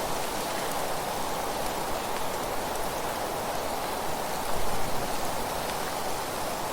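Steady rustling hiss of wind through dry fallen leaves, briefly a little louder about two-thirds of the way through.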